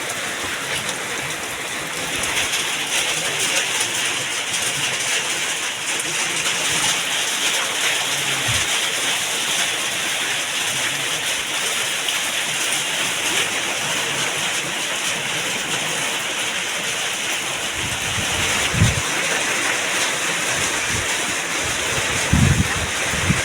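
Steady rain falling, an even hiss, with a few short dull thumps, one about a third of the way in and a few more near the end.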